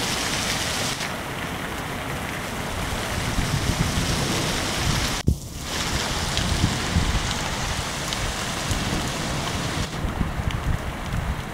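Heavy rain falling steadily while strong wind gusts buffet the microphone in low, uneven rumbles. The sound briefly cuts out about five seconds in.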